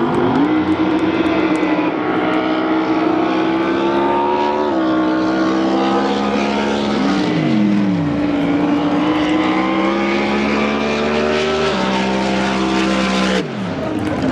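Drag boat engines running with a steady pitch that slowly creeps upward, shifting abruptly a few times. About halfway through, one engine's pitch slides down sharply as it winds down.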